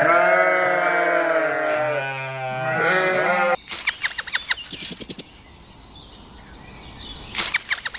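A farm animal bleating: one long, wavering bleat that cuts off abruptly about three and a half seconds in. It is followed by two quick runs of sharp, high clicking chirps, the second near the end.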